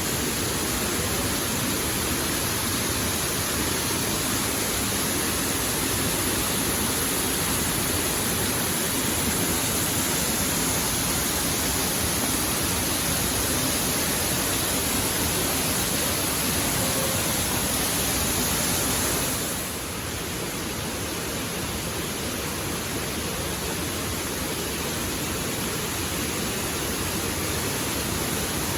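Waterfall rushing, a steady dense hiss of falling water. About two-thirds of the way through it drops slightly in level and its high end changes, then runs on steady.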